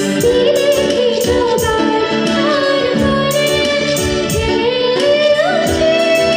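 A young girl singing an Assamese song, holding long ornamented notes, over instrumental accompaniment with a steady beat.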